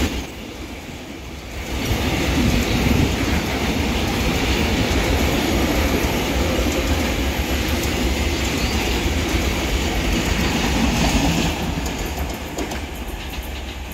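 Container wagons of a freight train rolling past, their wheels clattering over the rail joints. The noise dips briefly at the start, then falls away near the end as the last wagon and the brake van go by.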